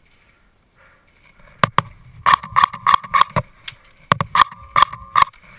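Airsoft rifle firing: two single shots about a second and a half in, then two rapid bursts of about half a dozen shots each, with a whine from the gearbox during the bursts. The shooting comes just before the shooter calls out that he is reloading.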